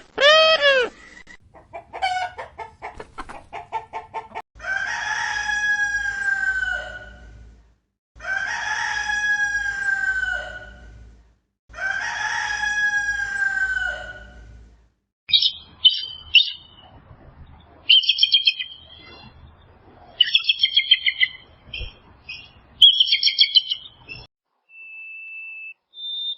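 A rooster crowing three times, each crow about three seconds long, after a run of short clucks. It is followed by bursts of rapid, high-pitched bird chirping.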